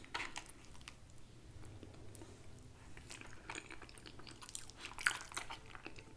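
Close-miked chewing of food: soft wet mouth clicks and smacks, with a few louder bursts of clicks about three and a half and five seconds in.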